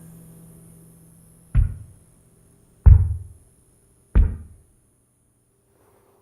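Three deep, heavy knocks, evenly spaced about a second and a quarter apart, each dying away quickly; the second is the loudest. A faint ringing tone fades out before the first knock.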